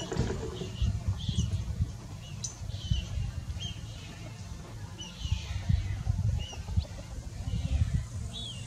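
Short, high bird chirps repeating irregularly, roughly once or twice a second, over a fluctuating low rumble.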